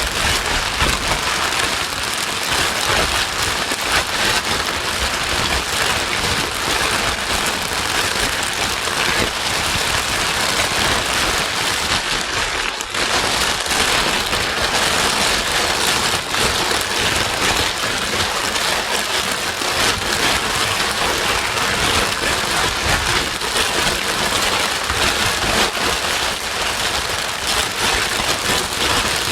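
Steady white noise: an even, rain-like hiss, with a brief dip in level about thirteen seconds in.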